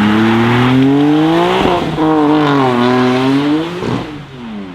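A performance car's engine accelerating hard: revs climb, break at a gear change about a second and a half in, then climb again. Near the end the pitch falls steeply as the car passes by and the sound fades.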